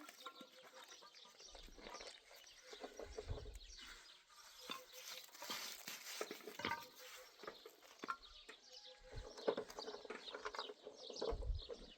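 Livestock calling faintly amid scattered clicks and knocks, with gusts of low rumble in places.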